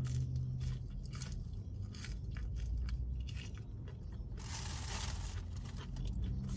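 Close-up chewing and crunching of crispy fried fast food, a run of short crisp crunches with a brief, denser rustling crunch about four and a half seconds in.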